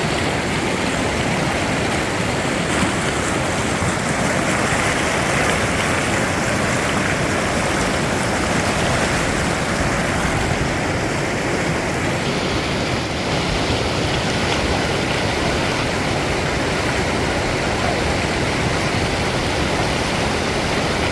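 Steady rushing of river water through rapids, an even, unbroken noise.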